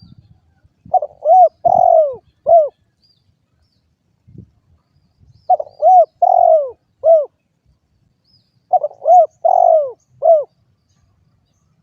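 Spotted dove (derkuku) cooing loudly in three phrases about three and a half seconds apart. Each phrase is about four arching coos, the third note the longest.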